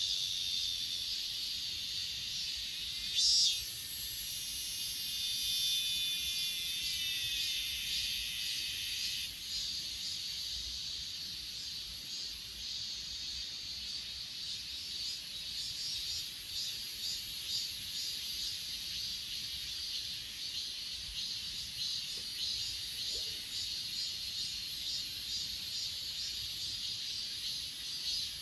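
Steady chorus of crickets and other grass insects chirring high-pitched. A louder, very high buzz joins about three seconds in and stops about nine seconds in.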